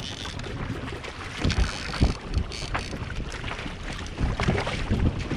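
Wind buffeting the microphone on a kayak at sea, with water sloshing and slapping against the hull in irregular low thumps.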